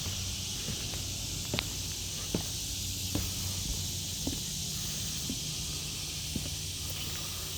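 Footsteps on a wooden deck, a light knock roughly once a second, over a steady high hiss.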